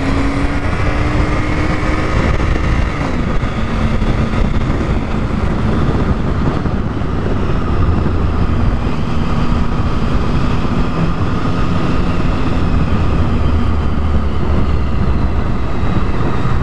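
Triumph Tiger 1050's inline-triple engine running under way: its note climbs for the first few seconds, then drops and holds at a steady lower pitch. Wind rumble on the microphone runs under it.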